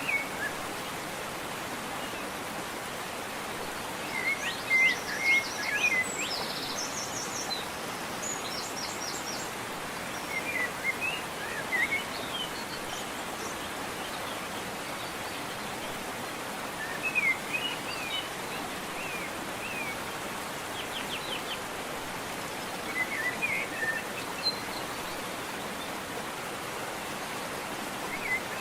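Steady rush of falling water from a waterfall, with birds singing over it in short bursts of chirps and quick trills every few seconds.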